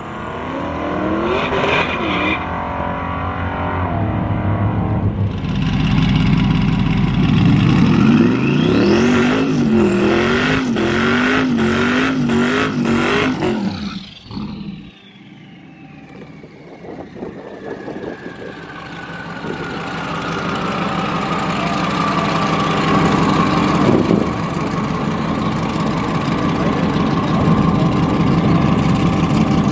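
Twin-turbo Dodge Demon V8 at full throttle, its pitch wavering rapidly up and down, then cutting off sharply. A whine falls slowly over several seconds, and steady engine sound builds again near the end.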